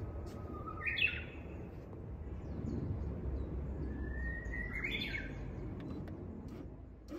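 A bird calling twice, each call a short rising note that breaks into a brief harsher chirp, over a steady low outdoor rumble.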